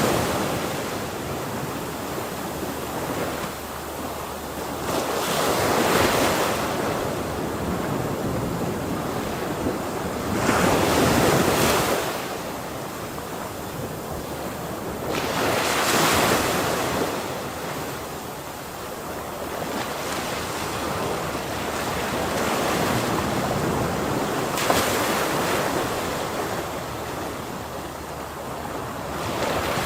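Ocean waves breaking on a shore, a steady wash of surf that swells into a louder crash every few seconds and then recedes.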